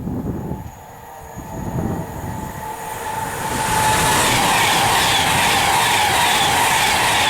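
Class 390 Pendolino electric train passing at speed. A low rumble swells into a loud, steady rush of wheel and air noise about three and a half seconds in, with a steady whine running through it.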